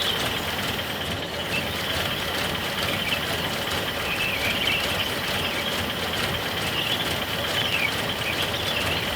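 1986 Nissan 720 pickup's Z24 four-cylinder engine idling steadily on its first start after sitting for years. It runs quietly, with no knocking.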